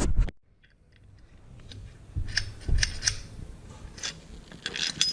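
Sharp metallic clicks and light clinks from tools and parts being handled, spaced irregularly over the last three seconds, after a short loud clatter at the very start.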